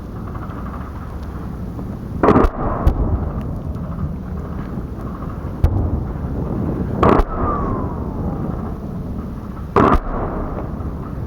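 Three loud booms of live weapons fire, each brief, coming about two and five seconds apart over a steady low rumble. A faint falling whine trails off after the second boom.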